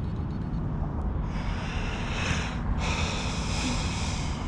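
Brushless electric motor and propeller of a Turbo Timber Evolution RC plane whining from about a second in, dropping out briefly near the middle and coming back. Steady wind rumble on the microphone lies under it.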